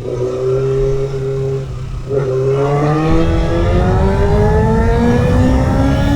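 Kawasaki ZX6R (2008) inline-four engine through a GPR aftermarket exhaust, running at steady revs. About two seconds in the throttle is briefly eased, and then the revs climb steadily as the bike accelerates.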